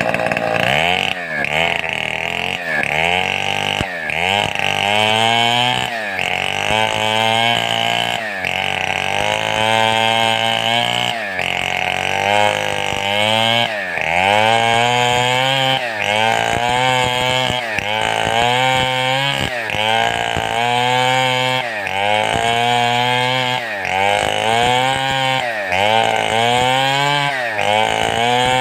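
Large two-stroke chainsaw of the Stihl 070 class cutting wood with a rocking swing of the bar. The engine note dips and climbs back in a steady rhythm, a little over once a second, as the chain bites in and eases off.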